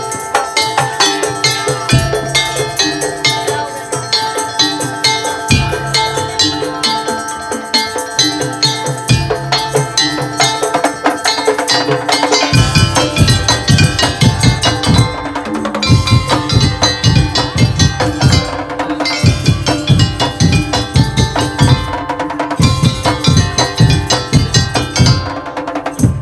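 Madurese musik tong-tong ensemble playing a fast rhythm: dense wood-block-like percussion strikes over ringing pitched tones. Heavy bass drum beats join about halfway through, and the music stops abruptly near the end.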